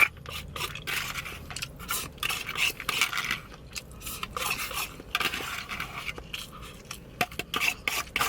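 Cutlery scraping and clinking against a dish while eating: a run of short, irregular clicks and scrapes.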